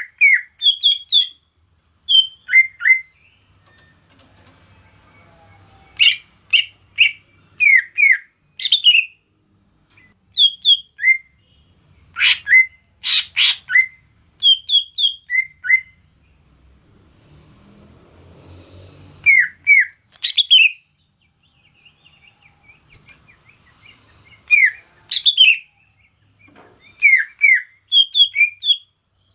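Green leafbird (cucak ijo) singing: quick runs of sharp, gliding whistled notes in short phrases with pauses of a few seconds between them, over a steady high hiss.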